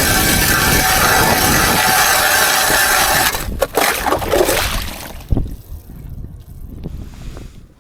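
Strong wind buffeting the microphone out on open ice, a loud rushing rumble that eases off about three seconds in, leaving gustier, quieter wind and a few short knocks.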